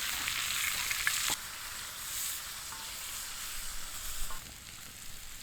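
Peppers, onions and mushrooms sizzling as they fry in bacon grease. The sizzle is loudest for the first second or so, then drops back to a steadier, quieter sizzle after a single knock.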